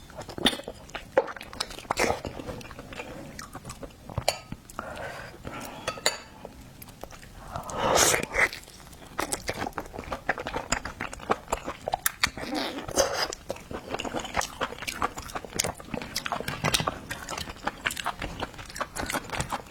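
Eating seafood: chewing and biting, with many short crisp clicks and crunches.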